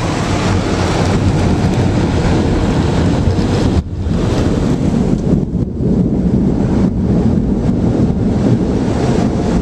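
Automatic car wash's air dryer blowers blasting air over the car, heard from inside the cabin as a loud, steady rush of wind that dips briefly about four seconds in.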